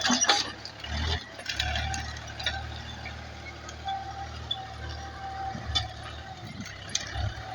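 Tractor engine running with a steady low drone while tilling, with several sharp clanks and knocks along the way.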